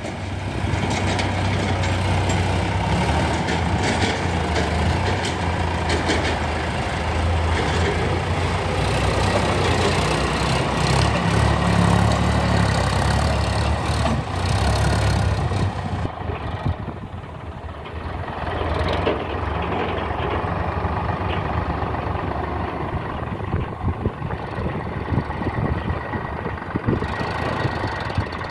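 Tractor engine running steadily under load. A little past halfway its sound drops and thins out, then picks up again.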